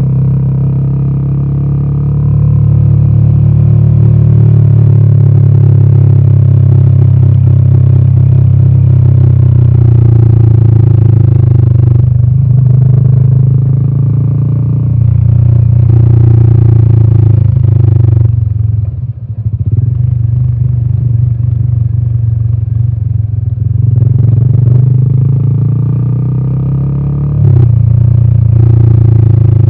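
Royal Enfield Himalayan 450's single-cylinder Sherpa 450 engine running under way, heard as a steady, deep exhaust note. The note dips briefly about 18 seconds in as the throttle eases off, then picks up, and steps up louder again near the end.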